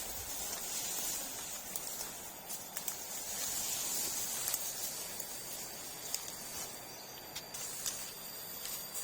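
Outdoor ambience: a steady high hiss with scattered light clicks, and a thin steady high tone coming in about halfway through.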